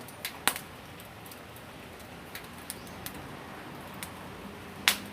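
Wood fire crackling in a Picogrill folding fire stand: scattered sharp pops over a steady hiss, the two loudest about half a second in and near the end.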